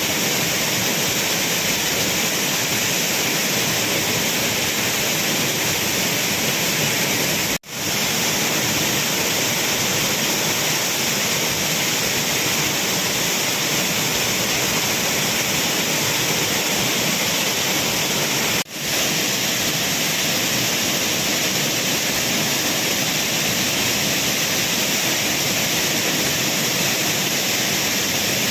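Flooded waterfall: a heavy, steady rush of falling water, with brief cuts about a third of the way in and again about two-thirds of the way in.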